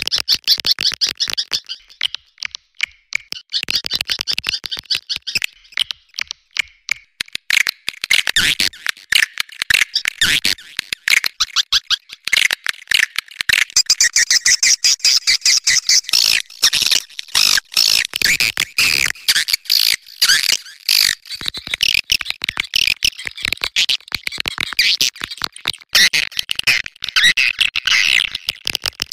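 Swiftlet mating calls: a flock of edible-nest swiftlets giving rapid chattering chirps and clicks, densest from about eight seconds in. This is the kind of lure call played to draw swiftlets in to nest.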